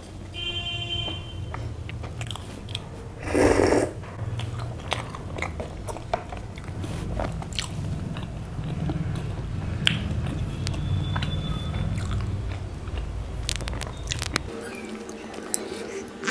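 A person chewing food close to the microphone, with many small wet mouth clicks over a low rumble. There is one loud bite of about half a second some three and a half seconds in.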